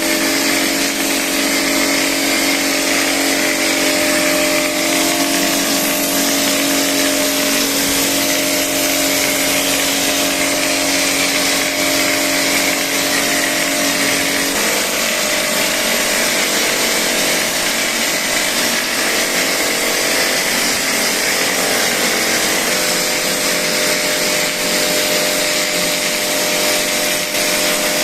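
Plaster spraying rig running steadily: a loud, even hiss of air with a motor hum that changes about halfway through.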